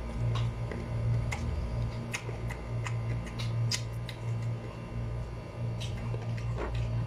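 Chewing of crunchy, unripe green mango up close: scattered sharp crunches and mouth clicks over a steady low hum.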